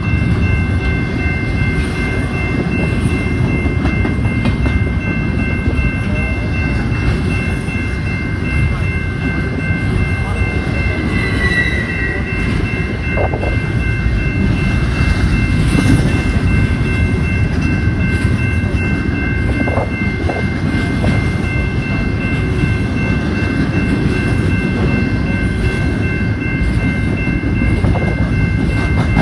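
Double-stack intermodal container cars rolling past over a grade crossing, with a steady heavy rumble and clatter of wheels on rail. A grade-crossing bell rings steadily over it.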